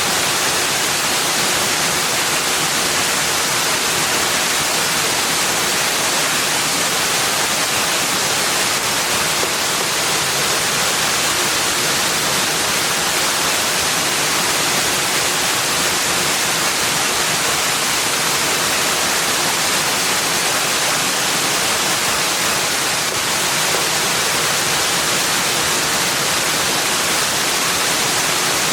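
Steady rushing water, an even hiss with no breaks or individual events.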